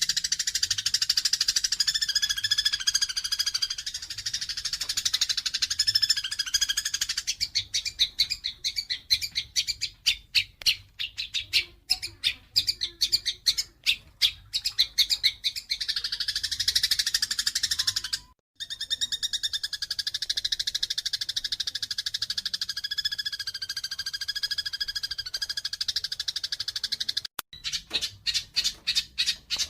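Eurasian tree sparrows giving fighting calls: dense, rapid, high chattering chirps. In the middle these break into a run of separate sharp chirps, and the sound drops out briefly twice.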